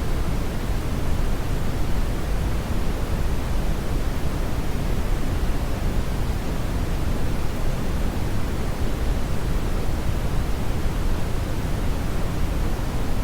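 Steady brown noise: a continuous, even rushing hiss weighted heavily toward the bass, with no rhythm or change.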